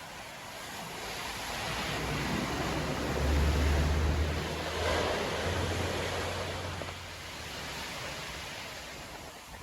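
Stormy sea surf: the noise of a wave swells, breaking with a deep rumble about three seconds in, then its wash fades away.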